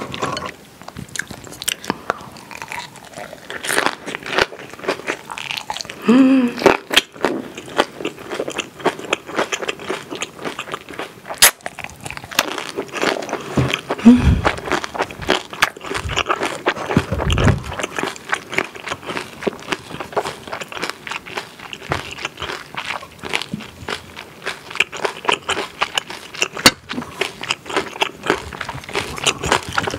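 Close-miked chewing of a big boiled-cabbage wrap filled with spicy pork kimchi stir-fry, green chili pepper and raw garlic: steady wet chewing with many small crisp crunches.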